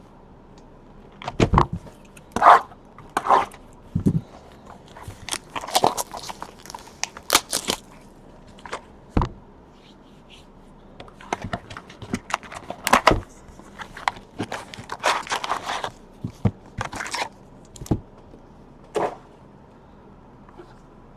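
Trading cards and their foil pack wrappers being handled: irregular crinkling and rustling with sharp clicks and slaps, in uneven bursts over roughly twenty seconds.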